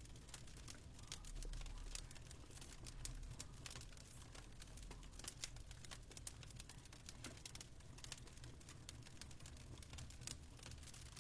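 Faint fireplace crackling: many small irregular pops and snaps over a steady low hum.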